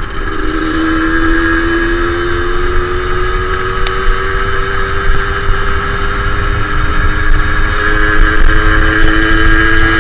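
Suzuki Satria two-stroke motorcycle engine running under way, its pitch rising slowly as it gains speed, with a low wind rumble underneath.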